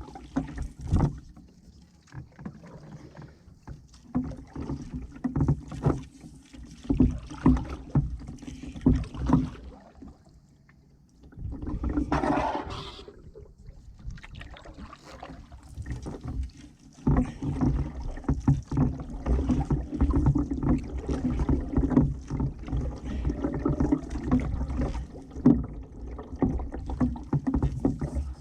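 Solo canoe being paddled with a wooden ash paddle: repeated paddle strokes and knocks against the canoe. A short lull comes about a third of the way through, followed by a brief louder hissing rush, and the strokes come more densely after that.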